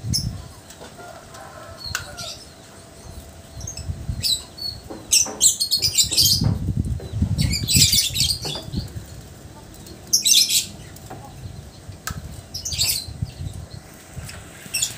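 Lovebirds flapping their wings in several bursts, loudest around the middle, with short shrill chirps heard five or six times.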